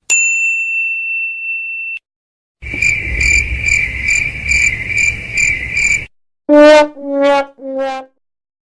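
Three stock sound effects in a row: a single high beep held for about two seconds and cut off, then crickets chirping in regular pulses over a low background rumble, then three descending brass-like 'wah wah wah' notes, the first loudest, like a sad trombone fail sound.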